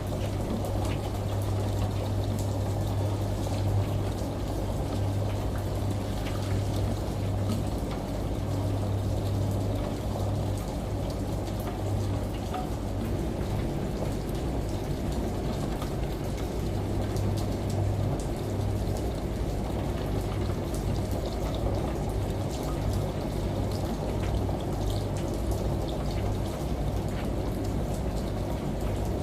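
Steady water noise with scattered small drops over a constant low hum: rain and shower water layered with a washing machine running.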